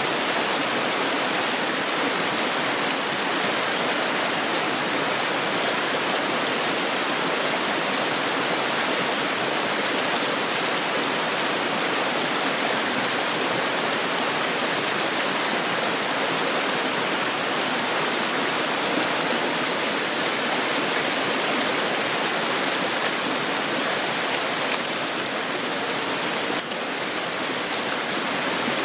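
River water rushing steadily over rocks, an even wash of noise. A few faint clicks or taps come through near the end.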